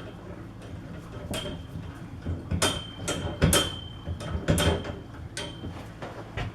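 Machined metal collar and sleeve being slid down over a drill press column: a series of knocks and scrapes, several with a short high metallic ring, the loudest about three and a half seconds in, as the part binds and catches on the column.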